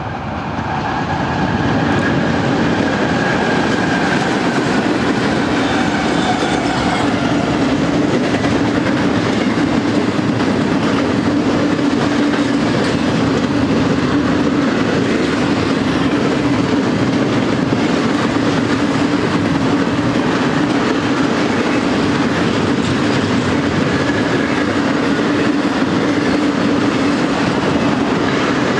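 BNSF double-stack intermodal train passing close by, led by GE ES44AC diesel locomotives. It swells over the first second or two, then holds a loud, steady rolling rumble with wheel clatter as the container well cars go by.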